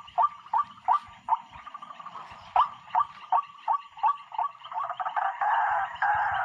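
Karoak bird calling: short harsh notes repeated about three times a second, breaking into a dense, continuous chatter about five seconds in.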